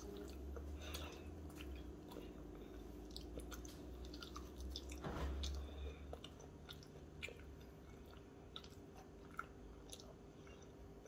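Faint chewing of fried eel in a coating of cornflour, with many small scattered clicks. A louder thump comes about five seconds in.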